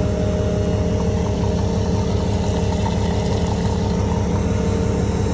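Farm machinery engine running steadily at a constant speed, with an even low throb.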